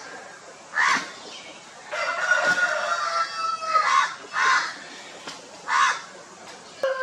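A rooster crows once, a long call of about two seconds that falls slightly in pitch, amid several short, harsh calls from other birds before and after it.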